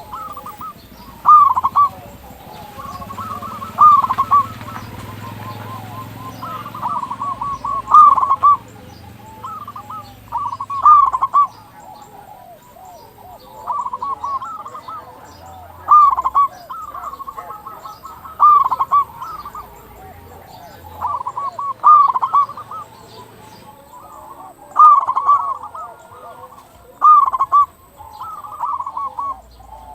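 Zebra dove (perkutut) cooing its song, loud phrases of rolling, curved notes repeated every two to three seconds.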